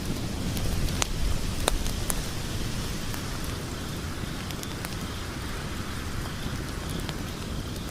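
Log fire crackling: a steady low rush of burning wood with a few sharp pops scattered through.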